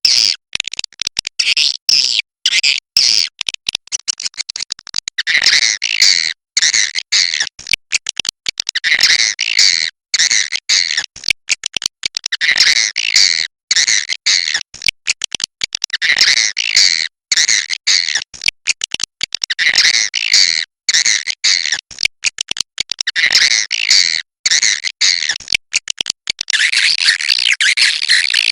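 Swiftlets twittering: a dense, continuous run of high, rapid chirping calls, broken by many abrupt short gaps.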